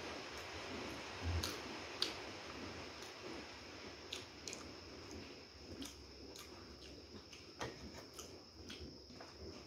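Close-up chewing and crunching of crispy fried chicken, heard as scattered short crisp clicks, with a low thump about a second and a half in, over a faint steady high-pitched whine.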